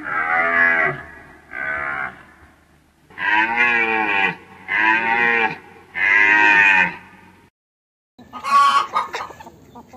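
Deer bleating: a series of five drawn-out, nasal calls, each rising and then falling in pitch. After a short gap, different, shorter and sharper calls begin near the end.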